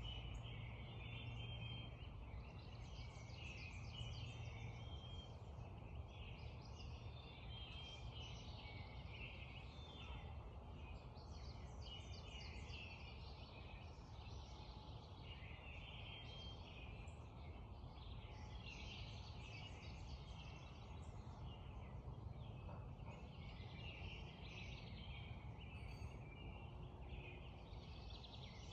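Many songbirds singing together in a spring dawn chorus, with a steady low rush of creek water underneath.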